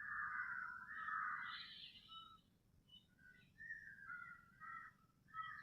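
Birds singing: a loud whistled phrase in the first two seconds, then short broken chirps at a few different pitches.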